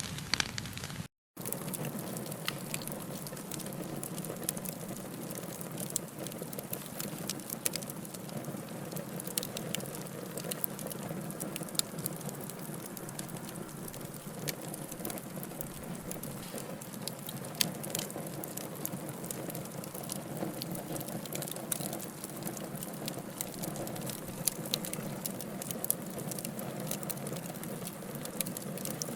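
Wood fire crackling in a fireplace: a steady hiss of burning with frequent sharp pops and snaps. The sound cuts out completely for a moment about a second in.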